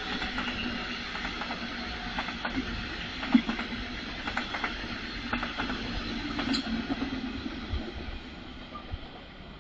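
A train running past on the track: a steady rolling rumble with scattered sharp clicks from the wheels, fading away near the end.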